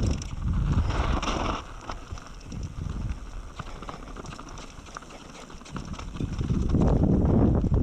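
Mountain bike rattling and clicking over rough ground. Wind buffets the microphone loudly at first, eases off through the middle where the small clicks and knocks stand out, and rises again near the end.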